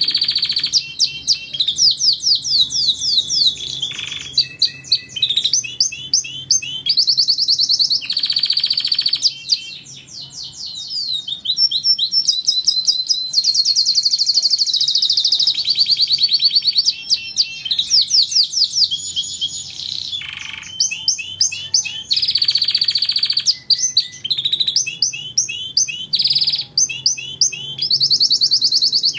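Domestic canary singing continuously: long runs of fast trills and rattling phrases with brief pauses between them.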